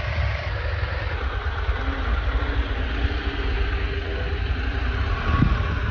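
A single-cylinder KTM Adventure motorcycle engine idling at low revs with a steady, even rumble.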